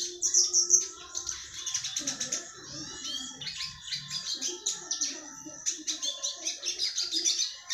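A small songbird called retsiski singing a fast, unbroken stream of high chirps and trills.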